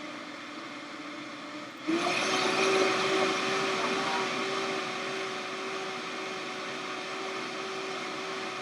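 Vitamix blender running at low speed, then stepping up to a higher speed about two seconds in. From there it runs louder, with a steady higher whine, blending a hot drink until frothy.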